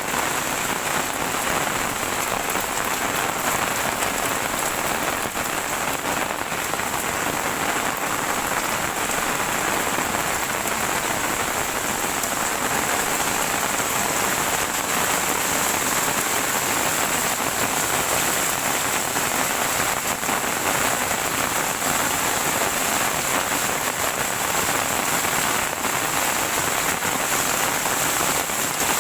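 Heavy rain falling steadily on surfaces: a dense, even hiss of drops.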